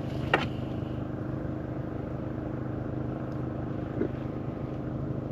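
Boat's outboard motor running steadily as it crosses the lake, with a couple of faint knocks about half a second and four seconds in.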